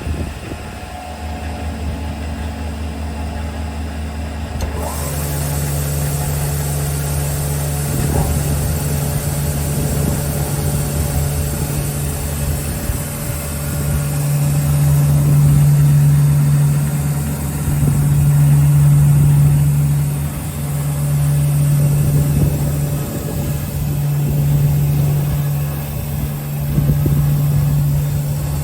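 Electric motors of a REMA DMGB-35 double-sided panel saw running with a steady hum. A second motor comes up about five seconds in, and the sound then swells and eases every few seconds.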